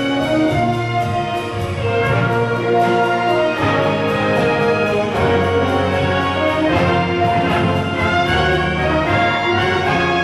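Church orchestra playing a medley of Christmas songs, with brass to the fore over a steady percussion beat of about four strokes a second.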